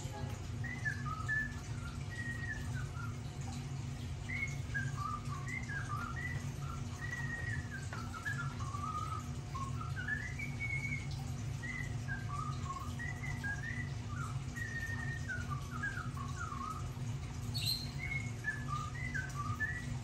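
Small bird chirping and whistling in short notes that rise and fall in pitch, a few a second, over a steady low hum. A sharp click comes near the end.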